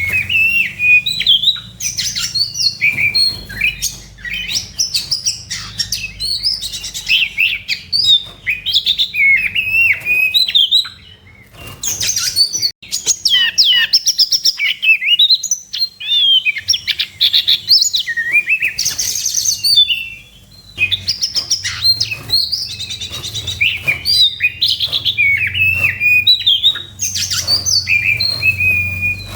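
Oriental magpie-robin (kacer) singing hard in its aggressive fighting song: a rapid, varied stream of loud whistles, slurs and chattering notes, with brief pauses about 11 and 20 seconds in. A steady low hum lies underneath.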